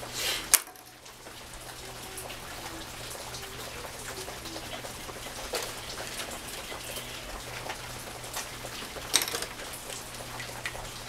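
Steady rain falling, with two sharp clicks, one just after the start and one about nine seconds in.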